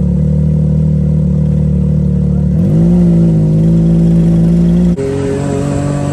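Pit bike engine running under load on the road, holding a steady pitch, then rising in a short glide about two and a half seconds in. Near the end it drops abruptly, as at a gear change.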